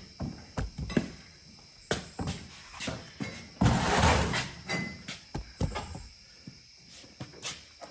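A series of knocks, clicks and clatters of hardware and tools being handled, with a louder rushing noise about four seconds in that lasts under a second.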